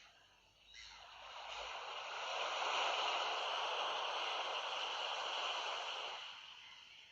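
A sea wave washing in: a rush of water that swells up over a couple of seconds, holds, then fades away.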